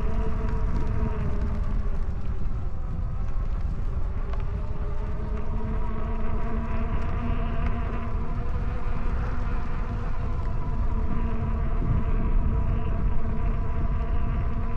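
E-bike motor whining steadily as it pulls, its pitch drifting slightly with speed, over wind rumbling on the microphone.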